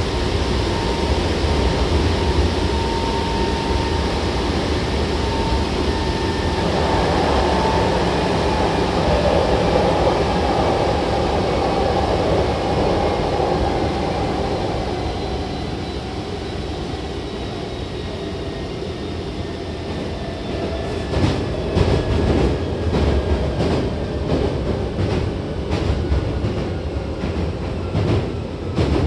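Hankyu Kobe Line electric train running, heard from inside the car: a steady rumble with a motor whine that slowly falls in pitch as the train slows. From about two-thirds of the way in, the wheels clack over track joints in a regular rhythm.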